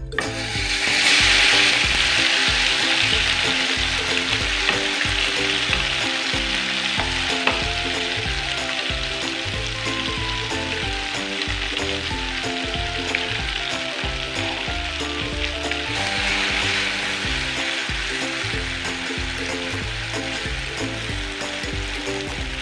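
Coarsely ground spice paste sizzling as it is sautéed in hot oil in a wok, stirred with a wooden spatula. The sizzle is loudest in the first couple of seconds after the paste hits the oil and swells again later on.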